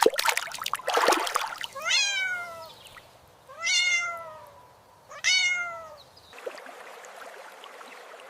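A cat meows three times, each call dropping in pitch, after a short burst of noise right at the start.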